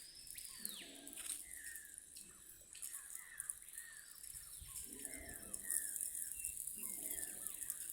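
Forest birds calling over and over in short repeated notes, with a few longer swooping calls, above a steady high-pitched insect hiss.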